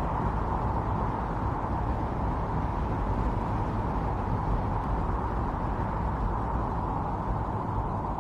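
Strong winter wind blowing steadily, a continuous rushing noise without gusts or breaks.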